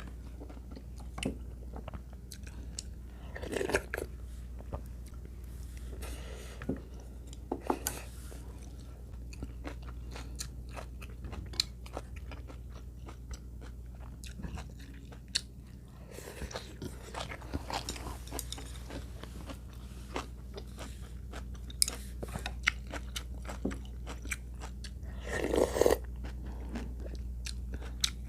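Close-up chewing and crunching of food, with scattered small clicks and a few louder bites, over a steady low hum.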